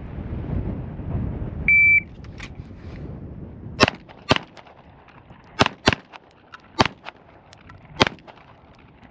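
A shot timer beeps once to start, then a Springfield Armory Prodigy pistol fires six shots in three pairs, each pair on a different target. The first two are about half a second apart, the next two close together, and the last two about a second apart. This is a six-shot transfer drill run in about 6.3 seconds from the beep.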